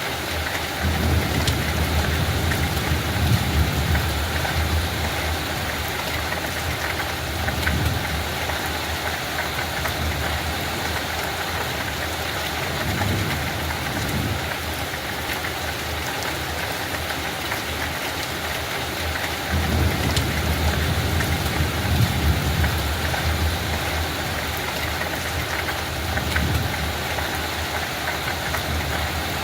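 Steady light rain falling on a field, a continuous even hiss, with low rumbles swelling up and fading, strongest about a second in and again about twenty seconds in.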